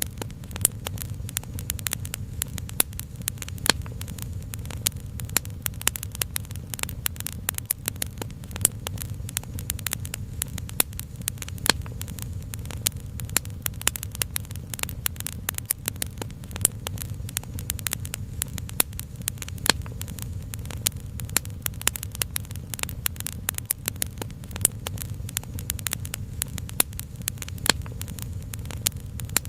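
Wood fire crackling, with dense, irregular sharp pops over a steady low rumble.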